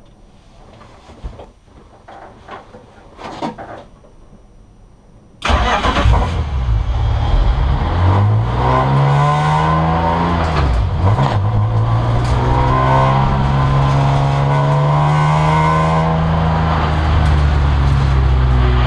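Small clicks and rustles in the cockpit, then the S54 straight-six in an E36 BMW M3 race car comes in suddenly and loudly about five and a half seconds in, heard from inside the caged, stripped cabin. The engine rises in pitch for a couple of seconds, drops back near the middle, and then runs at a steady, fairly even speed as the car pulls away at low pace.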